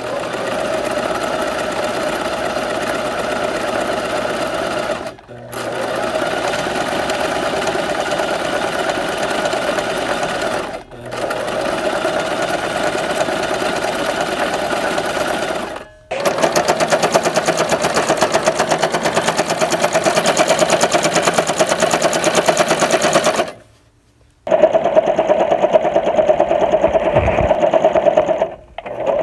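Sewing machine running in stretches of about five seconds, with brief stops between them. Just past halfway it runs louder, then stops for about a second and starts again.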